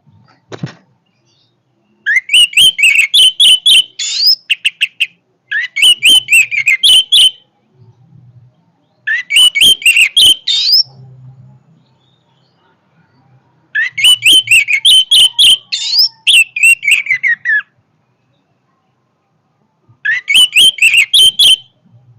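Orange-headed thrush (anis merah) singing loudly in five bursts of rapid, varied whistled phrases, each two to three seconds long, with pauses of a second or more between them.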